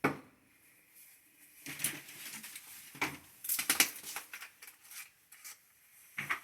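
Irregular knocks, clicks and scraping from objects being handled, in scattered bunches with the busiest stretch about three to four seconds in.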